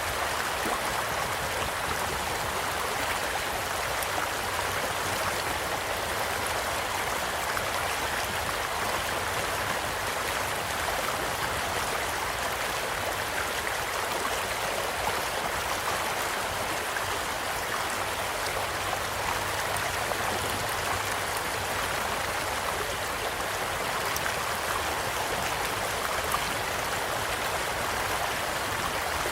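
A small stream flowing steadily, a constant rushing babble, with a campfire's crackling heard as scattered small pops over it and one sharper pop near the end.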